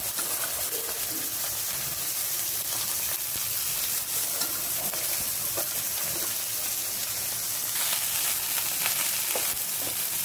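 Chopped okra frying in hot oil in a pan, a steady sizzle with faint crackles, as it is tipped in from a bowl and, near the end, stirred with a wooden spatula.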